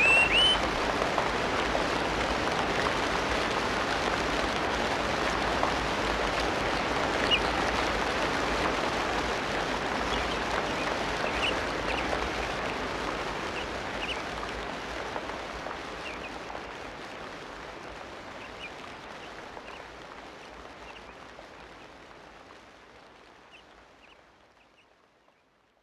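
Tropical rainforest ambience: a steady hiss of rain with a bird call rising in pitch at the start, then scattered short bird chirps. It fades out gradually over the last ten seconds or so, down to near silence.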